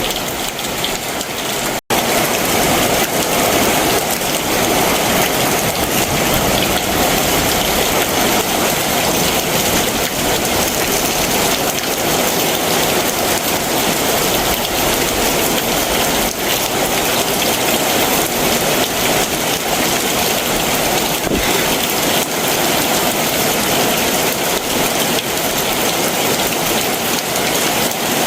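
Heavy summer monsoon downpour: steady, dense rain falling without letup. There is a momentary break in the sound about two seconds in, after which the rain continues slightly louder.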